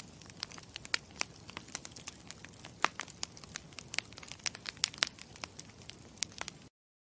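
Campfire crackling: a low steady hiss with frequent irregular sharp pops and snaps, cutting off abruptly near the end.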